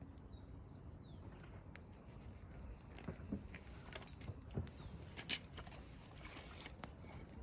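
Wood fire crackling with scattered sharp pops, the loudest about five seconds in, and faint bird chirps in the first couple of seconds.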